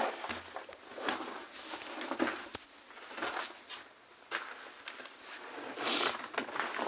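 Footsteps crunching and scuffing over debris, roughly one step a second.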